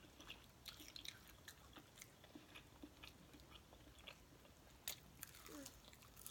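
Faint close-up chewing of fried chicken wing: soft wet mouth clicks and small crunches, with one sharper click about five seconds in.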